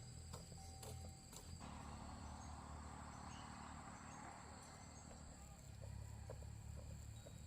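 Faint outdoor ambience with steady high-pitched insect buzzing, a few light clicks in the first second and a half, then a soft hiss for a few seconds.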